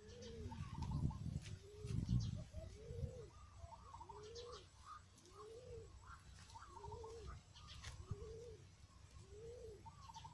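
A dove cooing: a steady series of short, low, rising-and-falling coos, about one a second, with faint small-bird chirps behind. A low rumble in the first couple of seconds is the loudest thing.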